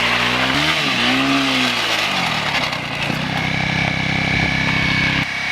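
Motorcycle engine revved up and back down twice, then held at steady high revs for about two seconds before dropping off sharply near the end.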